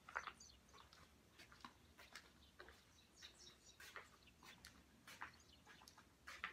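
Birds chirping faintly, short calls scattered throughout.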